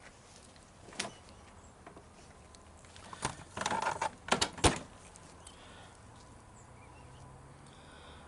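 Small metal carburetor parts and hand tools being handled on a work surface: a click about a second in, then a short rattle and scrape followed by several sharp clinks about three to five seconds in.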